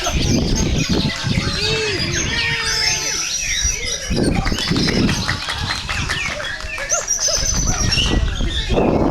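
Several white-rumped shamas (murai batu) singing at once, a dense overlapping mix of rapid whistled glides, trills and chattering phrases, over a steady low background rumble.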